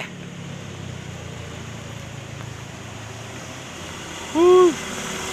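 Vehicle engine running steadily, with one short, loud call by a voice about four and a half seconds in.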